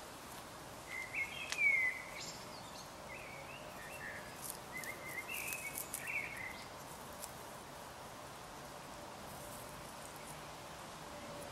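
A small bird chirping and twittering in short phrases through the first half, over a steady outdoor background hiss with a few faint clicks.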